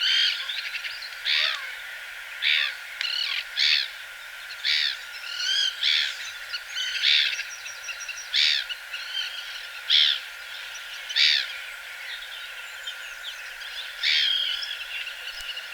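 Birds calling: short, repeated calls about one a second, high-pitched, with other calls overlapping between them.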